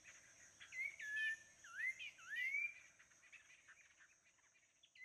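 A bird singing clear whistled notes, a short run of swooping slurs strongest about one to three seconds in, over a steady high drone of insects.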